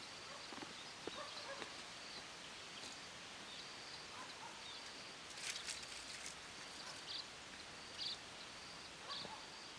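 Quiet outdoor ambience: a steady hiss under a thin high call that repeats about once a second, getting sharper near the end, with a short patch of clicking and rustling about halfway through.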